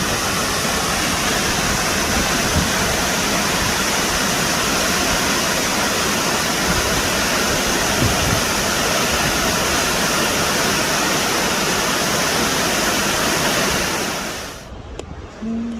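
Waterfall rushing, a loud steady wash of falling water that fades out about fourteen seconds in. A brief low tone sounds just before the end.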